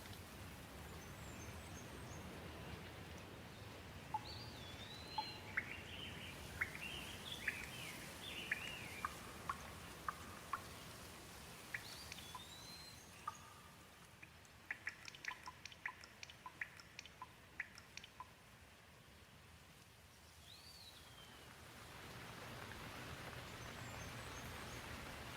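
Gentle rain falling steadily, with a bird chirping and calling in short, rising and falling notes through the first two thirds. The rain dips in the middle and picks up again near the end.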